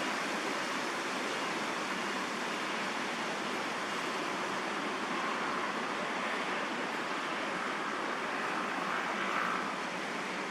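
Steady background din of distant traffic: an even hiss with no distinct events.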